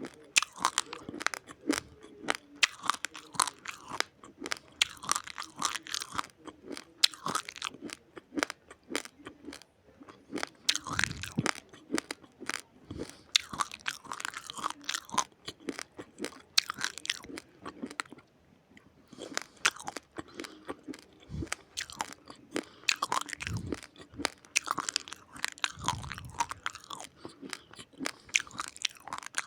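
Raw, uncooked rice grains being chewed, cracking between the teeth in many sharp crunches in quick succession, with a short lull about two-thirds of the way through.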